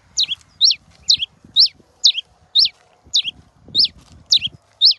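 Caged cravina (pileated finch) singing its 'maçarico' song: a fast run of sharp whistled notes that sweep down and then up, repeated about twice a second.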